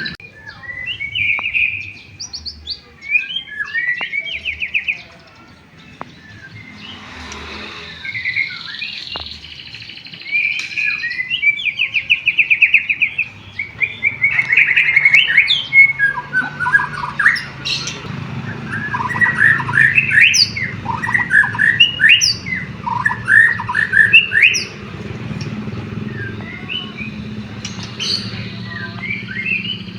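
White-rumped shama (murai batu) singing a long, varied song mixed with canary-style phrases: rapid trills and sweeping whistled notes. A faint low hum runs underneath.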